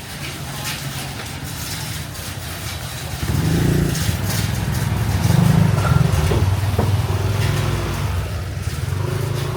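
A motor vehicle's engine running close by. It gets much louder about three seconds in, is loudest around the middle, then eases off.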